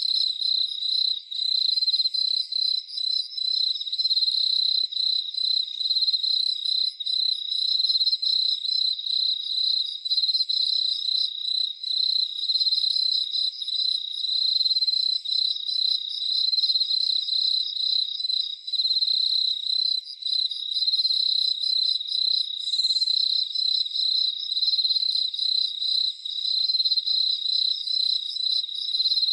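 Crickets chirping steadily in a fast, high-pitched pulsing trill, with a fainter, higher pulsing insect call over it.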